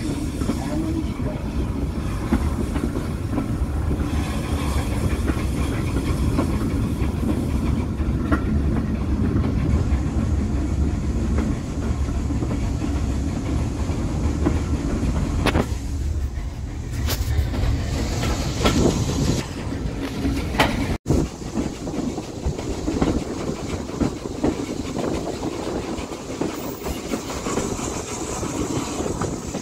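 Heritage train running along the line: a steady low rumble of wheels on rail, clacking over the rail joints. A few sharper sounds come a little past halfway, and the sound drops out for an instant about two-thirds of the way through.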